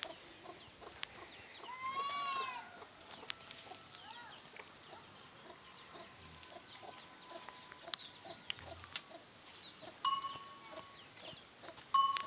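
Farmyard animal calls, likely poultry: many short faint clucks and peeps, with a longer arched call about two seconds in and sharper pitched calls about ten seconds in and again near the end.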